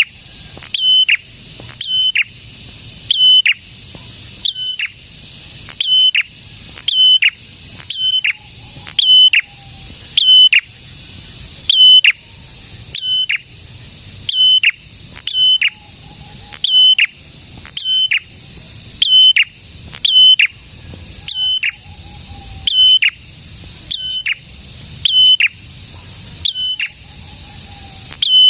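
A prenjak calling without pause, repeating the same loud, sharp high note about once a second, each one dipping onto a held pitch and then dropping away. A faint, lower note from another bird comes in a few times.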